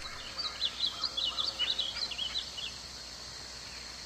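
Small birds chirping in a quick run of short, high notes over a steady background hiss; the chirping dies away after about two and a half seconds.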